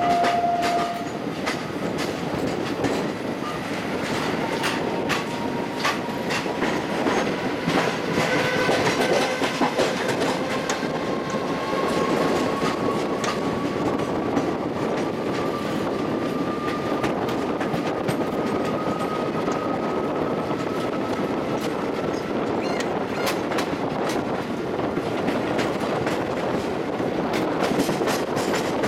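Passenger coach of an Indian Railways express accelerating out of a station behind a WAP-7 electric locomotive: a steady rolling rumble with wheels clacking over rail joints and points. A short steady tone sounds right at the start, and a faint whine rises slowly in pitch through the middle as the train gathers speed.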